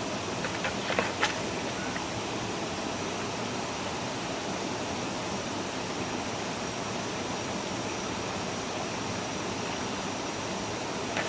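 Steady rushing of a stream's running water, with a few short knocks about a second in and another near the end.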